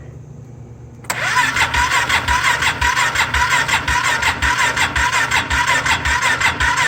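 Polaris Sportsman 570's electric starter cranking its single-cylinder engine, starting about a second in with a steady pulse about three times a second, without the engine firing: a crank-but-no-start fault.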